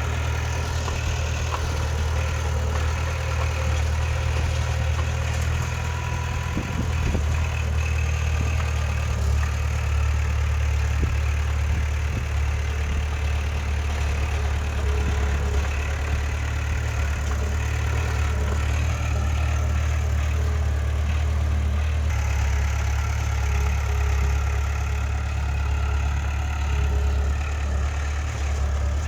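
Heavy diesel engine of earthmoving machinery running steadily, a low, even drone.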